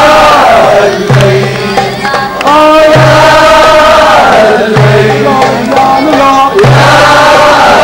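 A group singing an Arabic song together, voices holding long drawn-out sung lines, with drum beats keeping time.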